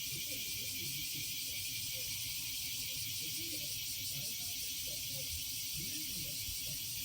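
Steady high-pitched drone of cicadas, with a faint regular pulsing.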